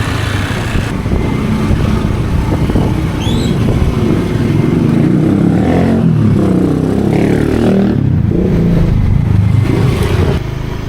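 Motorbike engine running under way, its pitch rising and falling several times as it speeds up and slows.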